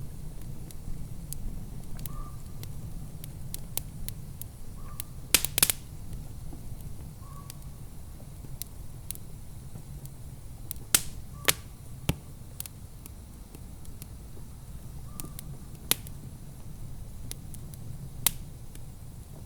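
Wood fire crackling in a fireplace: scattered sharp pops and snaps, the loudest a quick cluster about five and a half seconds in, over a low steady rumble.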